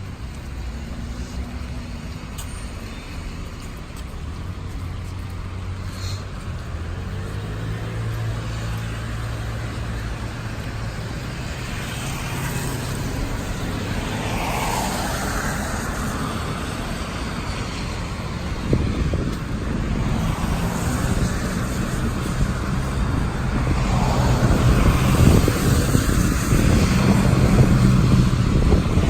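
Road traffic in the rain: cars passing on a wet street, tyres hissing on the wet road, with one vehicle's engine getting louder near the end.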